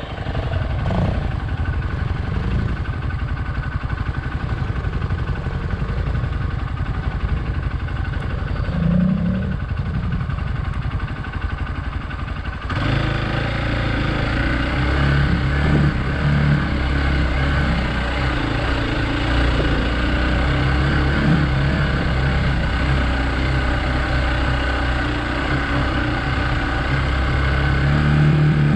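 Single-cylinder engine of a Hero Xpulse 200 motorcycle running under way off-road, its note rising and falling with the throttle. About halfway through the sound changes abruptly to a deeper, fuller engine note.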